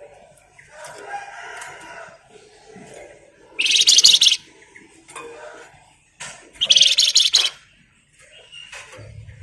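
Flamboyan songbird singing: softer varied twittering broken by two loud, high, rapid buzzing trills (the 'ngebren' rattle), one a little under four seconds in and one about seven seconds in, each lasting under a second.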